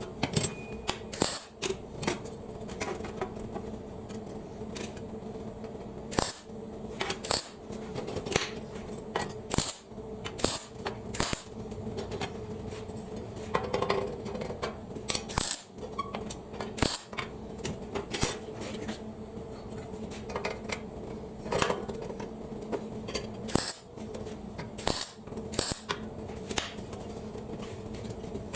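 Irregular sharp clicks and knocks, like steel parts being handled and set in place, over a steady machine hum.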